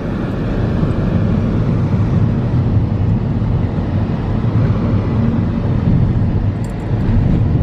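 Steady low rumble of a moving vehicle, heard from inside it, with no distinct events.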